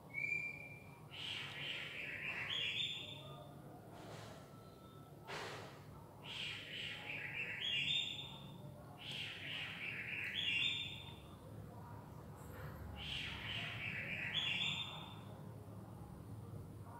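A bird singing the same short, rising phrase four times, a few seconds apart, over a faint steady low hum, with a single knock about five seconds in.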